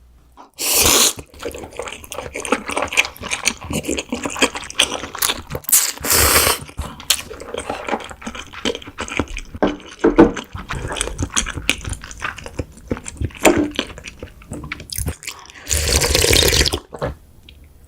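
Close-up slurping of cold buckwheat noodles and broth, with wet chewing and mouth clicks in between. A short loud slurp comes about half a second in, and a longer one of about a second comes near the end.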